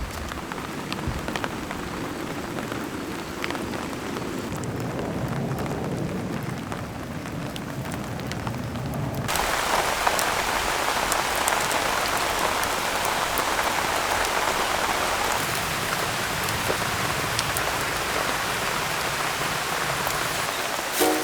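Steady rain falling, with scattered drops tapping. About nine seconds in the sound changes suddenly to a louder, brighter hiss of rain.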